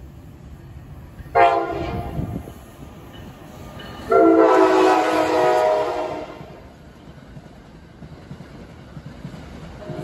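NJ Transit train horn sounding two blasts, a short one about a second and a half in and a louder one lasting about two seconds from about four seconds in, over the low rumble of the passing train.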